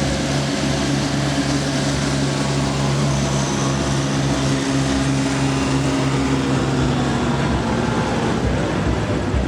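Pulling truck's engine running at a steady speed, its pitch easing slightly lower about seven seconds in.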